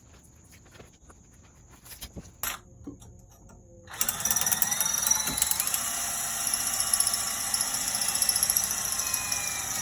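Crickets chirping steadily, then about four seconds in a power tool starts abruptly and runs loudly and steadily for about six seconds.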